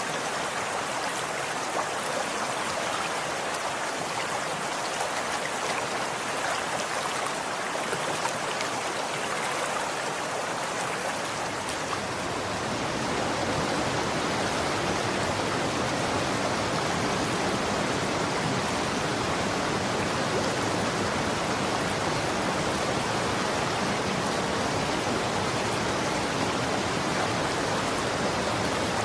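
Running water flowing steadily, an even rushing hiss. About twelve seconds in it turns fuller and deeper and a little louder.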